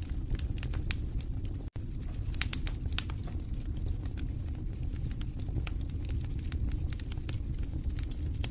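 Wood fire in a fireplace crackling: a steady low rumble of flames under frequent sharp pops and snaps, busiest around two to three seconds in. The sound cuts out for a split second just before two seconds in.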